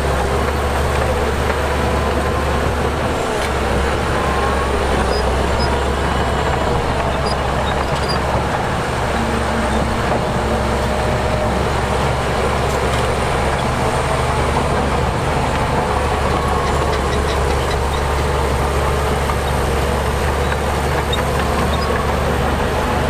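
Heavy diesel earthmoving machinery running steadily, a deep continuous engine drone with slight slow rises and falls in pitch.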